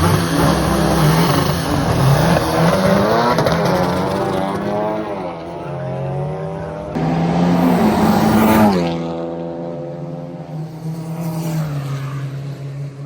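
Drag racing cars accelerating hard down the strip, engines revving up through the gears with a drop in pitch at each shift. About seven seconds in a louder engine climbs again, then falls away in pitch as it passes and fades.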